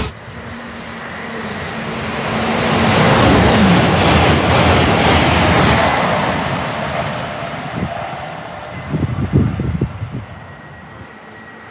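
A train passing at speed, its noise building to a peak and fading away, with a steady tone that drops in pitch as it goes by. A few low thuds about nine seconds in.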